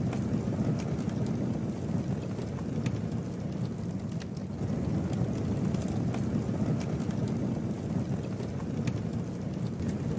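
Campfire burning: a steady low rumble with scattered small crackles and pops from the burning wood.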